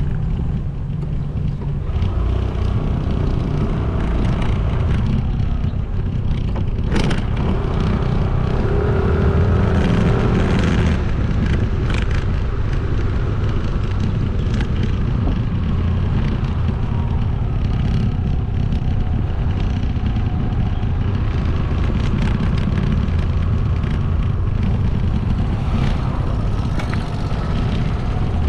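Motorcycle riding through city traffic: engine and road noise with heavy low rumble, steady throughout, with a few short sharp clicks along the way.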